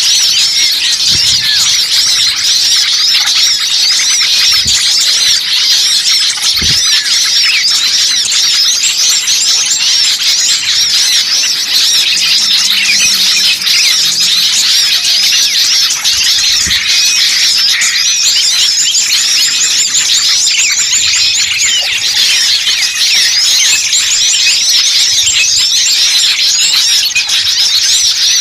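Bird-lure recording of a noisy crowd of small songbirds chattering together: many rapid, high, overlapping chirps and squeaky calls packed densely without a pause, the agitated flock calling used to draw wild small birds in.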